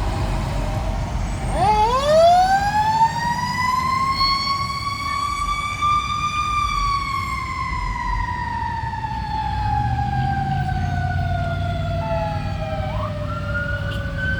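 Fire engine's mechanical siren winding up from low to a high wail over several seconds, then slowly coasting down in pitch, over the low rumble of the truck's engine. Near the end a second, higher siren tone starts and rises.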